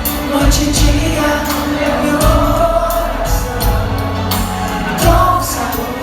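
Live pop-rock band playing: a lead voice singing over bass and regular drum hits.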